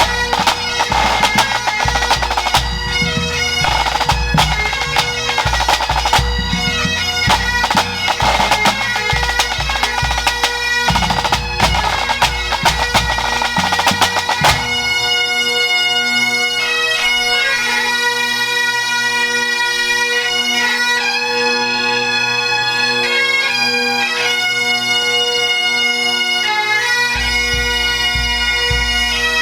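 A pipe band playing: bagpipes, with steady drones under a chanter melody, backed by a rattling drum corps. About halfway through the drums drop out and the pipes play alone, and the low drum comes back in near the end.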